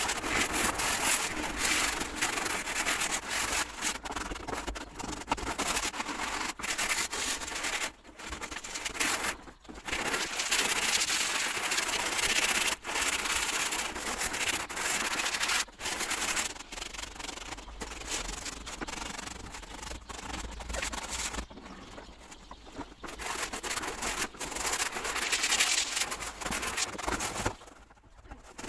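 Rough rubbing and scraping by hand on a surface, in runs of a few seconds broken by short pauses.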